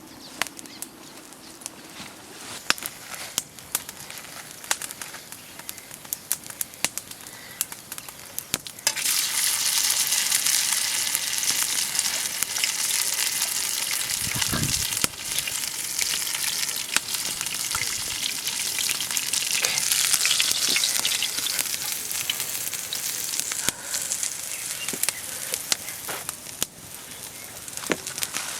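Food frying in hot oil: scattered crackles and clicks at first, then a loud, steady sizzle that starts suddenly about nine seconds in, with one low thump a few seconds later.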